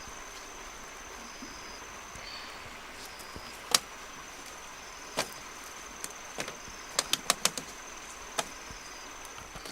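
Irregular sharp knocks of wood being struck or chopped: single strikes about four and five seconds in, then a quick run of four a little after seven seconds. Underneath, a steady high insect buzz.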